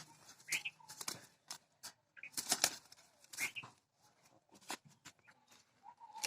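A trapped bird fluttering and scrabbling, giving a run of quick, irregular rustling knocks, with a few short chirps.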